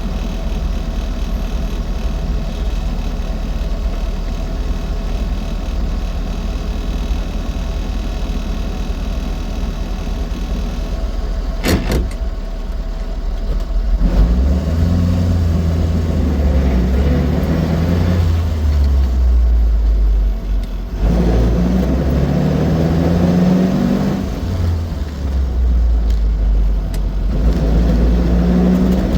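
Austin 7's side-valve four-cylinder engine and road noise while the car is driving: steady at first, with one sharp click about twelve seconds in. From about halfway, the engine gets louder and its note rises and falls several times as the car accelerates and changes gear.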